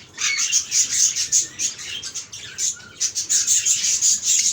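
A flock of caged albino pet birds chirping, many quick high calls overlapping in a busy chatter.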